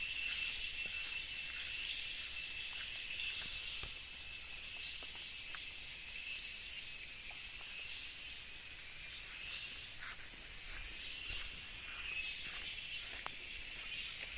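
A steady chorus of insects chirring at a high pitch, dense and unbroken, with a few faint ticks.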